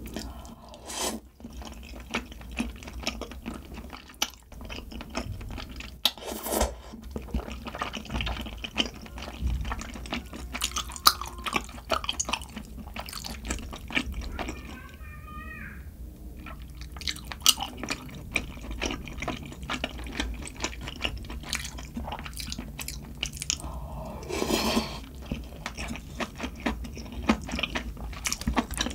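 Close-miked eating: steady chewing and wet mouth clicks, with a few longer slurps about a second in, around six seconds in and near the end.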